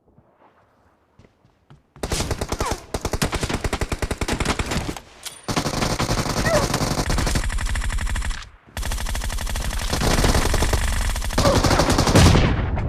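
Video game automatic gunfire: rapid machine-gun fire starting about two seconds in and running in long bursts, with brief breaks about five and about eight and a half seconds in.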